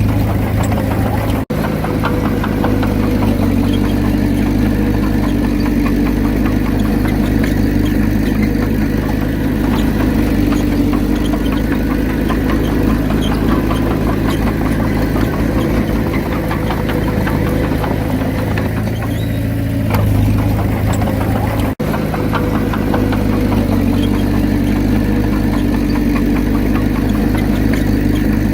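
Komatsu D31P bulldozer's diesel engine running steadily with a deep throb. The sound breaks off for an instant twice, about a second and a half in and again about three quarters of the way through.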